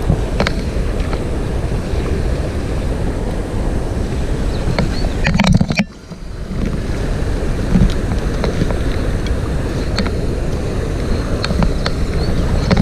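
Steady rush of a mountain trout stream, with wind buffeting the microphone and a few light clicks and knocks. The sound drops out for about half a second near the middle, then resumes.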